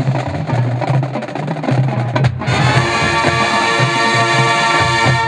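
Marching band playing: drumline and horns drive the first couple of seconds, then about halfway through the full brass section holds a long closing chord that cuts off at the end.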